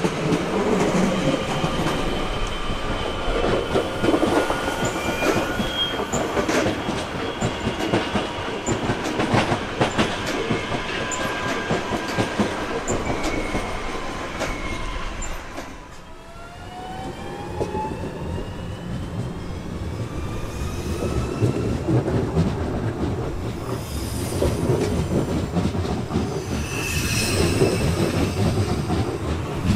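Trains running through a large station: a steady rumble with high-pitched wheel squeal and clicking over rail joints. After a brief dip, several rising tones come in as a train accelerates, and more wheel squeal follows near the end.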